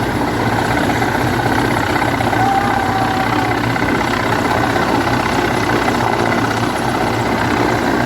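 A loud engine running steadily and evenly, with a low hum underneath.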